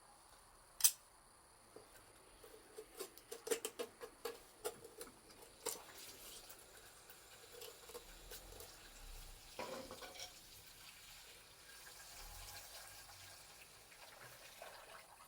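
Wood fire crackling: one sharp pop about a second in, then a run of small clicks and crackles, settling into a faint steady hiss.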